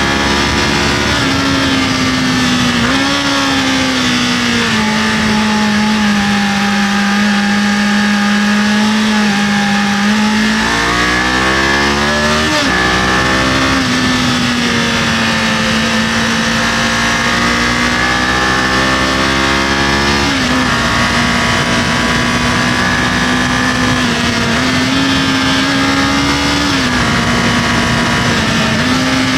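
Kawasaki KLE500's parallel-twin engine running under way at fairly steady revs, with wind and road noise over it. About ten seconds in the revs climb, then fall sharply just after twelve seconds, as at a gear change. The revs dip again a little past twenty seconds.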